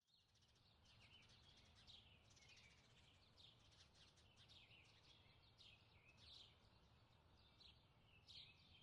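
Faint birdsong: many short chirps and down-sweeping calls from several birds overlapping in a continuous chorus, over a steady low rumble.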